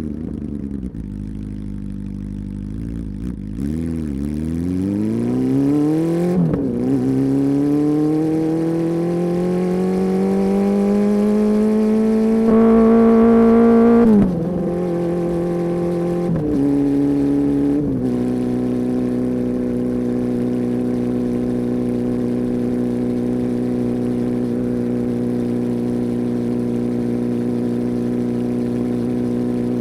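Honda CB400 Super Four inline-four engine and exhaust, running low and uneven at first, then pulling up smoothly in revs for about ten seconds, briefly louder at the top before the revs drop sharply, a short rise again, then a steady drone. The title calls the exhaust note a tremendously deep bass.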